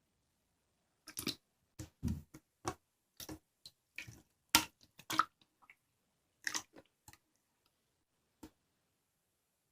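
Slime being pressed and squeezed by hand, giving irregular short wet clicks and pops, starting about a second in.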